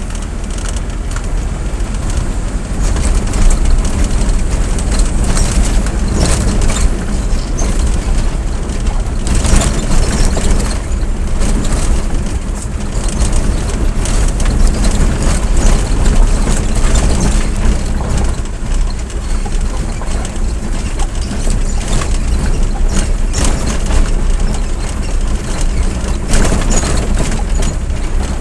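A moving road vehicle: steady engine and road noise with a heavy low rumble, unbroken throughout.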